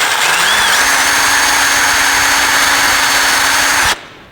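Electric drill drilling a pilot hole: the motor spins up with a rising whine, runs steadily, then stops abruptly near the end.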